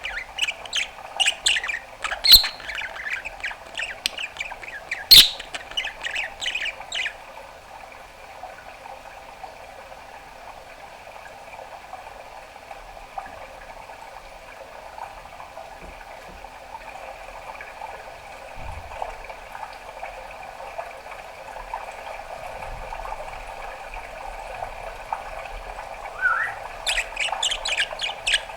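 Pet budgerigar chattering and warbling, with a couple of sharp pops among the rapid chatter for the first seven seconds. Then a long, much quieter stretch of soft, low warbling, a short rising chirp, and busy chatter again near the end.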